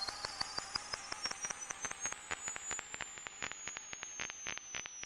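Synthesized electronic effect: a thin high tone rising slowly in pitch over a fast stutter of clicking pulses, which thin out and slow as the sound fades.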